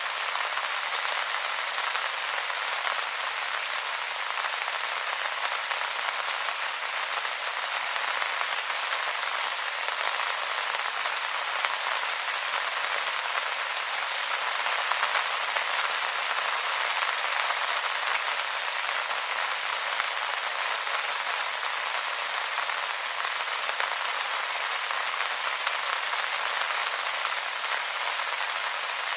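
Steady rain pattering on wet leaves, a continuous even hiss of many small drop hits.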